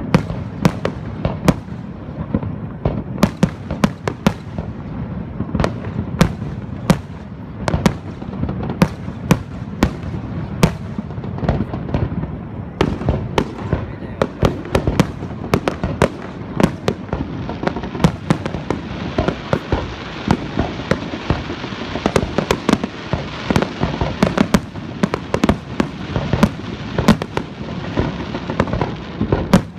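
Aerial fireworks shells bursting in quick succession: a continual run of sharp bangs over a low rumble. From a little under halfway through, a dense crackling joins the bangs and grows thicker.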